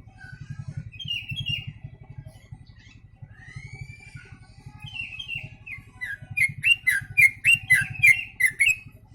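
Yellow-vented bulbul (trucuk) singing, its song filled with sooty-headed bulbul (kutilang) phrases: short repeated chirping phrases and a rising whistle, then a loud, fast run of notes, about three a second, in the last few seconds.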